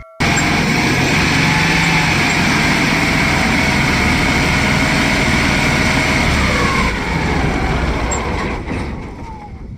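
Heavy farm vehicle's diesel engine running loud and steady, with a whine near the top. It becomes somewhat quieter over the last three seconds.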